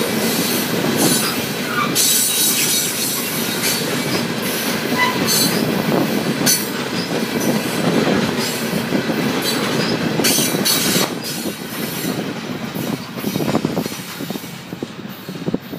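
Open-top hopper cars of a freight train rolling past: a steady rumble of steel wheels with repeated clicks over rail joints and brief wheel squeals. The sound fades over the last few seconds as the cars move away.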